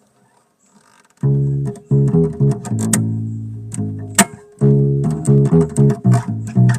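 Bass guitar played solo, starting about a second in: plucked notes, a longer held note, a short break, then a run of quicker notes, with sharp clicks between them.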